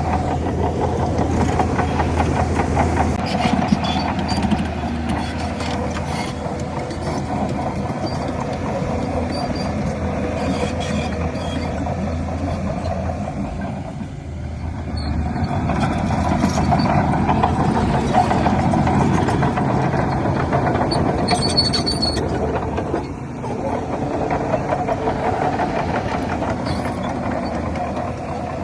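Heavy diesel earthmoving machinery running steadily under load, with the engine easing off briefly twice, about halfway through and again near the end.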